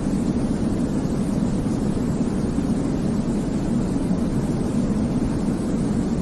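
Continuous white noise for baby sleep, a deep, low-heavy hiss like a steady rumble that never changes in level or character.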